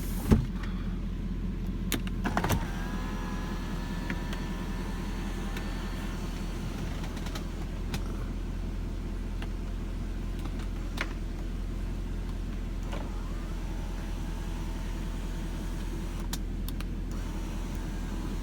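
1997 Lexus LS400's power sunroof motor running, with its V8 idling steadily underneath. A click comes about two seconds in, the motor whines for a few seconds, and it runs again for a few seconds later on.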